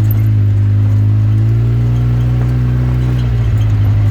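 Off-road vehicle engine running steadily, its pitch rising a little about a second and a half in and easing back down near the end.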